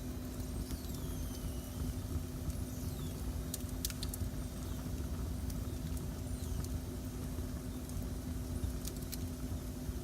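Wood fire burning in a fireplace: a steady low rumble with scattered sharp crackles and pops, and a few faint thin whistling glides in the first few seconds.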